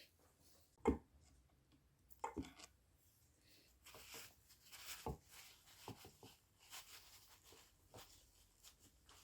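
Light workshop handling noises from engine parts being worked on: a sharp knock about a second in, a short clatter, then a run of small scrapes and knocks.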